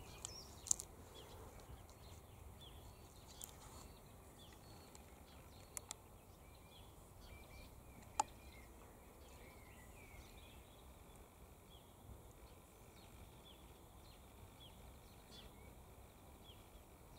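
Quiet outdoor background with many faint, short, high chirps of small birds calling in the distance, and a few sharp clicks, the loudest about eight seconds in.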